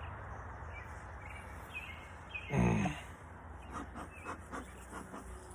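Outdoor background noise, with one short pitched call or voice sound about halfway through and a quick run of short chirps or clicks near the end.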